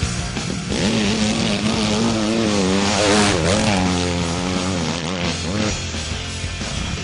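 A 250cc four-stroke single-cylinder motocross bike engine, the Suzuki RM-Z250, being ridden, its revs rising and falling again and again with the throttle. Background music plays underneath.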